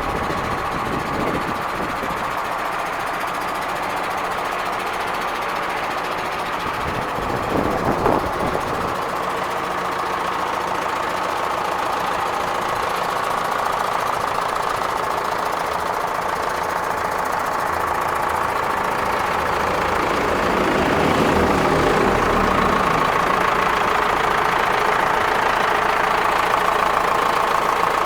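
Zetor Proxima 90 Plus tractor's diesel engine idling steadily, growing somewhat louder about two thirds of the way through.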